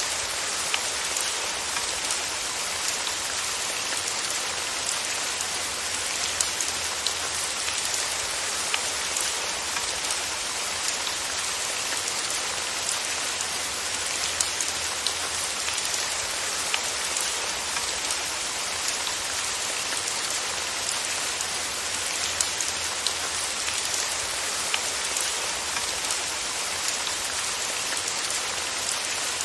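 Steady rain falling on a surface, a constant hiss with many small scattered drop ticks and a low rumble underneath.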